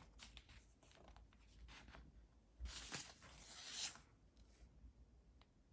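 A sheet of origami colour paper handled and folded by hand: faint crinkles and taps, then a louder rubbing swish from about two and a half to four seconds in as the fold is pressed flat.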